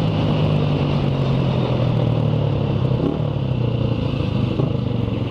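Motorcycle engine running steadily while riding through traffic, its pitch dipping slightly about three seconds in.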